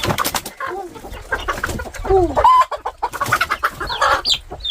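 Several chickens clucking and calling, with high short peeps among them and bursts of rustling and knocking.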